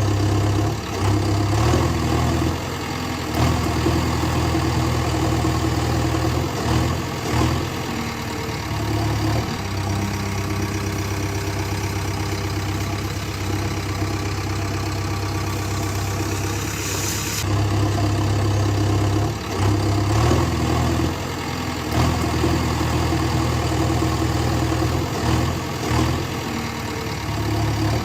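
Truck engine idling steadily, with small dips in level. The same stretch of sound seems to repeat about every 18 seconds, as if looped.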